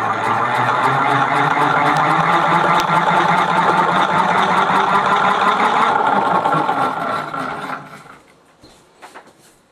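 Geared 36-volt, 250-watt electric scooter motor being hand-cranked as a generator: its gears whir steadily with a fine rattle, then wind down and stop about eight seconds in, followed by a couple of faint clicks.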